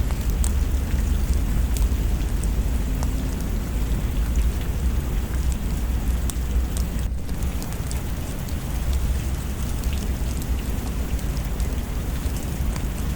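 Steady rain with a deep low rumble underneath and scattered small sharp crackles.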